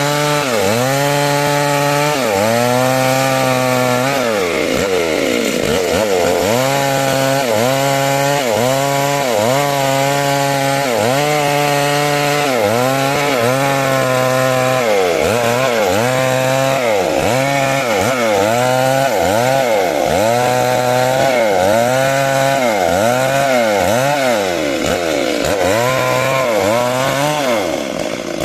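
Two-stroke chainsaw cutting timber lengthwise into rafters. Its engine speed dips and recovers over and over, about once a second, as the chain bites into the wood.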